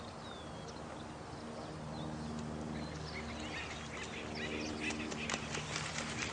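Birds calling in a night nature soundscape: short chirps and calls, sparse at first and becoming a busy chatter about three seconds in, over a steady low hum.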